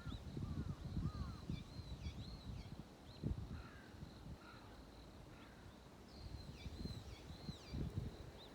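Wild birds calling at dawn: bouts of short, sweeping chirps and whistled calls, with a faint steady high tone behind them. Irregular low rumbling bumps, louder than the calls, run underneath.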